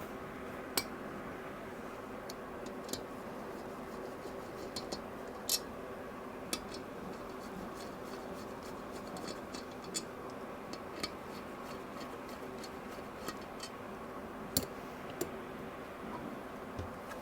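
Light, irregular clicks and taps of tools and metal engine parts being handled on a workbench, a dozen or so over the stretch, over a steady hum.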